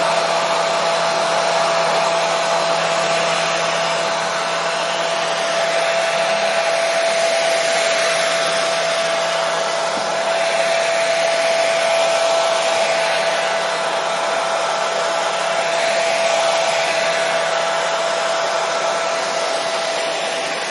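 Hair dryer running steadily: an even blowing hiss with a constant whine from the motor and fan, used as continuous white noise to soothe a baby to sleep.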